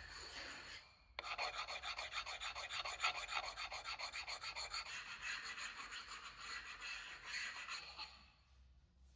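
Fast, repeated rubbing strokes of a hand tool on a hard surface. They start about a second in and stop near the end.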